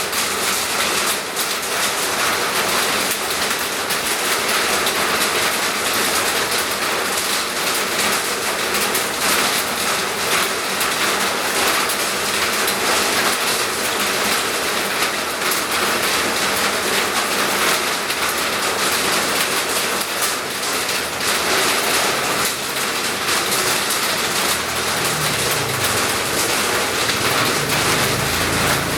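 Steady heavy rain, an even hiss with no let-up. A low hum comes in near the end.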